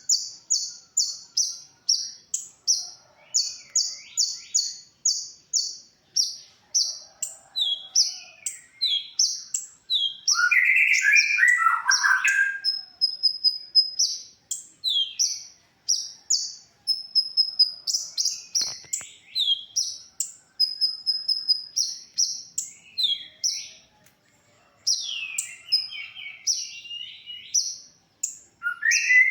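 Konin, a sunbird, singing: a fast run of high, evenly repeated chirps, about three a second, then a varied twittering of quick slurred notes and short high whistles, with a louder, lower warble about ten seconds in.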